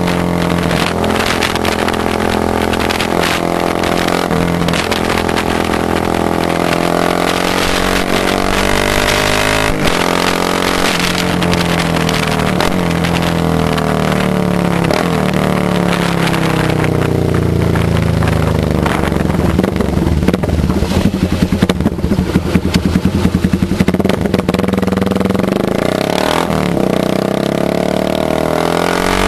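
Motorcycle engine running, its pitch rising and falling as the throttle is worked. About two-thirds of the way through it turns choppy, throbbing in rapid pulses for several seconds.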